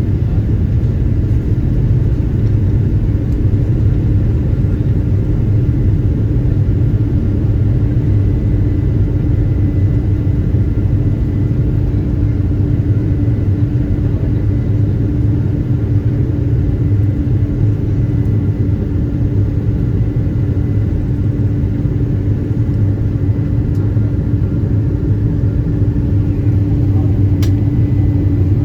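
Steady cabin noise inside a Boeing 777-200 in flight: a low rumble of engines and airflow with a constant hum over it, unchanging throughout.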